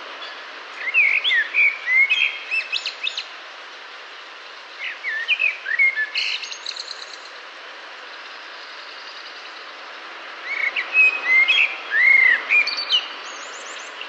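A bird singing in the evening: three separate phrases of quick, varied whistled notes and high chirps, a few seconds apart, over a steady background hiss.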